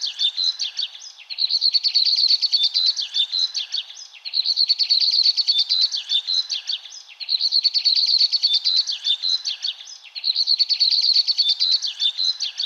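Birds chirping and twittering in rapid, high-pitched phrases that repeat almost identically about every three seconds, with short breaks between them.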